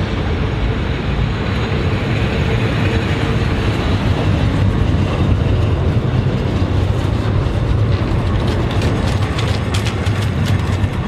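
Heritage passenger train rolling along slowly: a steady rumble from the carriages and wagons, with wheels clicking over rail joints from about eight seconds in.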